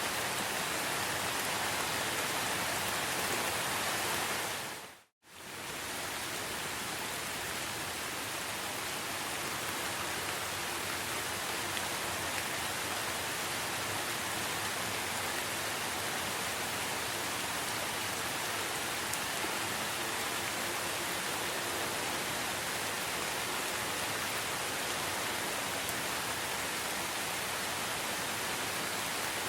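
Steady rain falling, an even hiss. About five seconds in it fades out to silence for a moment and quickly fades back in, then carries on a little quieter.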